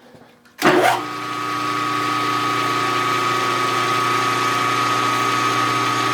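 Milling machine switched on about half a second in, its spindle motor coming up to speed and then running steadily with a boring head fitted, a steady whine over the motor hum.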